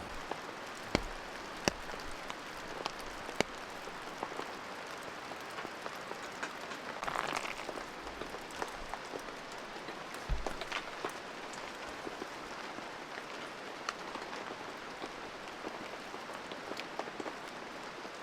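Steady rain falling, with scattered heavier drops striking sharply. There is a brief swell in the rain about seven seconds in and a single low thump about ten seconds in.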